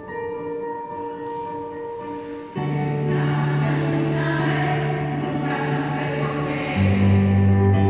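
Choir singing with accompaniment: soft held chords, then the choir comes in fuller and louder about two and a half seconds in, with deeper notes joining near the end.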